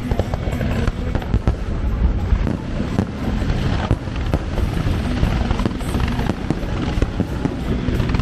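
Fireworks bursting and crackling in rapid succession, many reports a second, with music playing underneath.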